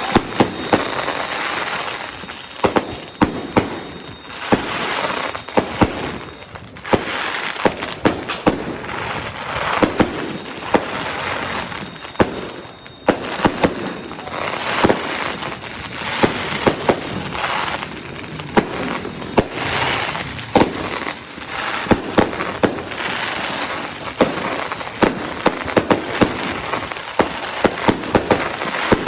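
Fireworks going off: many sharp bangs over a crackling hiss that swells and fades every few seconds.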